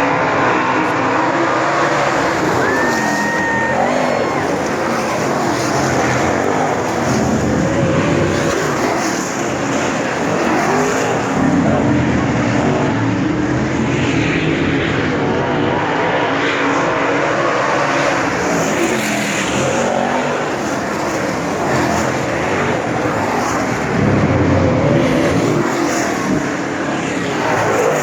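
A field of late model stock cars racing around the track, their V8 engines running loud and without a break, the pitch rising and falling as the cars pass.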